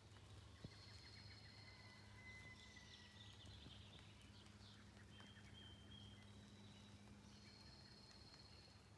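Faint birdsong: long, thin whistled notes held at several different pitches and a few quick trills, over a low steady hum.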